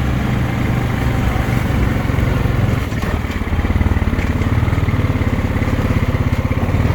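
Engine of a 2020 Honda Rubicon 520 ATV, a single-cylinder four-stroke, running under way on a trail in two-wheel drive. Its note dips briefly about three seconds in, then picks up again with a stronger pulsing beat.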